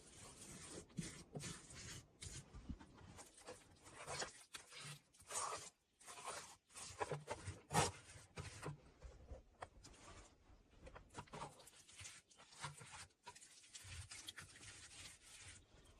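Hands spreading and smoothing wet mud over a brick fireplace: a quiet, irregular run of rubbing and scraping strokes.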